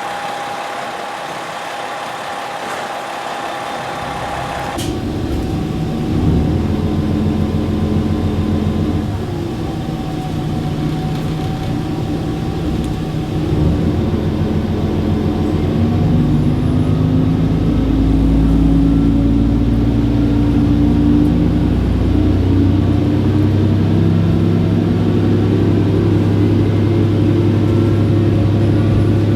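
JR West 221 series electric train pulling away and accelerating. About five seconds in, a steady high tone gives way to a loud low rumble of the running gear, and the traction motor sound rises slowly in pitch as speed builds.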